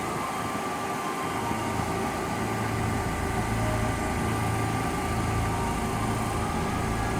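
Kintetsu electric train at the station platform: a steady low hum that comes in about a second and a half in and then holds, with faint steady tones above it.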